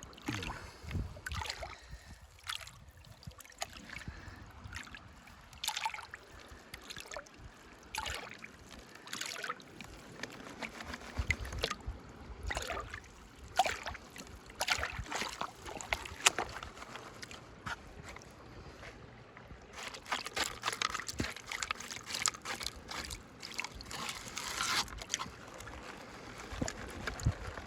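Water sloshing and splashing in a gold pan being worked by hand, in irregular strokes as the material is washed.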